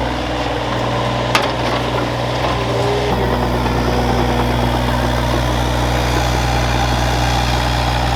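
Excavator's diesel engine running steadily. There is a single sharp knock about a second and a half in.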